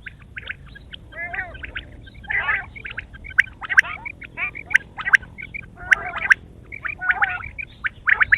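Quail calling in a steady stream of quick chirps and harsh, chattering notes, with a few sharp clicks among them.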